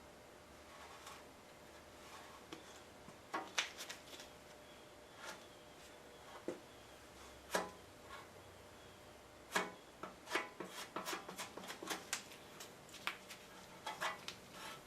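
Body filler being mixed with a spreader on a mixing board: faint, irregular scrapes and clicks, sparse at first and busier in the second half.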